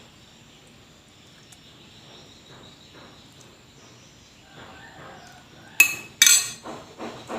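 Tableware and eating sounds at a meal: faint clinks for several seconds, then two loud, sharp crisp sounds close together near the end. A regular series of softer pulses follows, about three a second.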